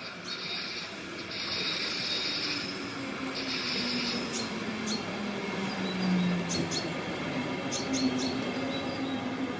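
SBB double-deck S-Bahn train pulling into a station platform and slowing. A high squeal from the wheels comes in bursts in the first few seconds, and a low whine falls in pitch as the train brakes. A few short sharp squeaks follow near the end.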